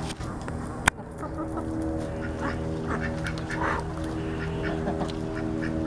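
Welsh Harlequin ducks quacking among other poultry calling while they feed, short scattered calls over a steady low hum. A sharp click about a second in.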